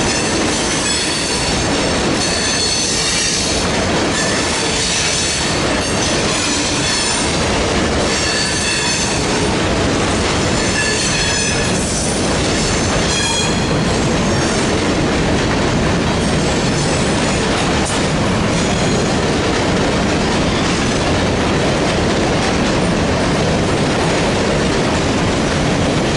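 A freight train rolling past at close range with a steady rumble of wheels on rail. Its wheels squeal with high, wavering tones through roughly the first half, and the squeal fades later while the rumble carries on.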